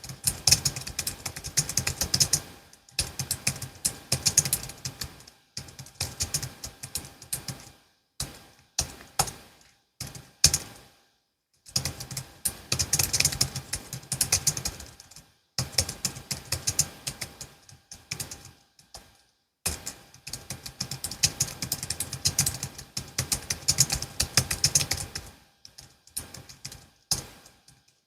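Fast typing on a Logitech MX Keys S low-profile keyboard: its keys click in rapid runs of a few seconds each, broken by short pauses.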